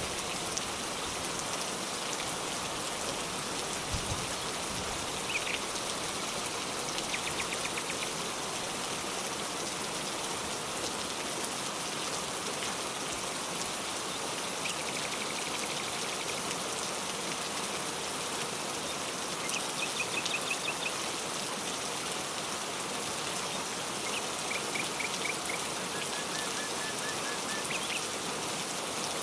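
Steady rain falling, with birds calling now and then: several short series of quick, high repeated notes over the rain.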